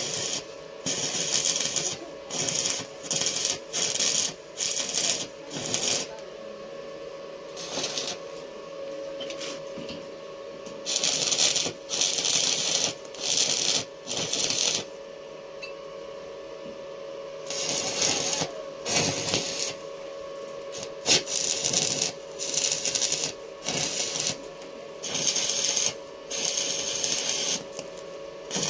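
Electric arc welding on a steel door frame: a string of short welds, each about half a second to a second long, with brief pauses between them, over a steady hum.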